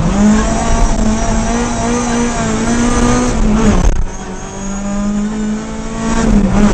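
Ford rally car engine heard from inside the cockpit, running hard at high revs. About four seconds in the engine note drops suddenly and goes quieter for a couple of seconds, then climbs again, with a short dip near the end.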